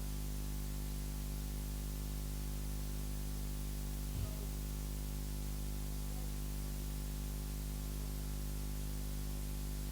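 Steady electrical hum and hiss from the sound system, with one faint short sound about four seconds in.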